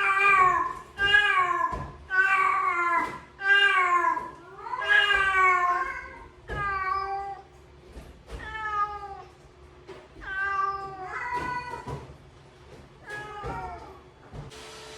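A cat meowing over and over, about a dozen long calls that each fall in pitch. The first half-dozen come loud, one after another; the later ones are softer and further apart.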